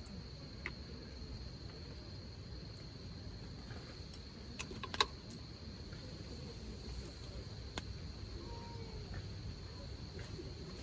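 Insects calling in a steady, unbroken high trill over low outdoor rumble, with a few sharp clicks, the loudest about five seconds in.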